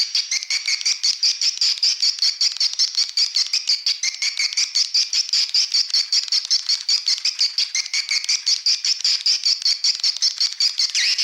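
Swiftlet lure-call recording of edible-nest swiftlets: a continuous, high-pitched chattering twitter of rapid, evenly spaced pulses, about six a second, used to draw swiftlets into a swiftlet house.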